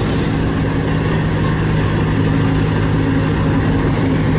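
Heavy vehicle's engine running steadily at a constant speed, a low even hum.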